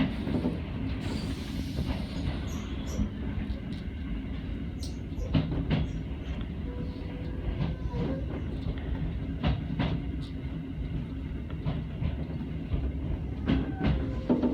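Tobu Urban Park Line electric train running along the line, heard from inside the front car. There is a steady low rumble, and pairs of clicks sound every few seconds as the wheels cross rail joints.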